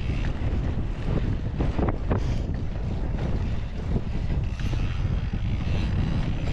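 Wind buffeting the microphone of a moving mountain bike rider, a steady low rumble, with a few short clicks about two seconds in.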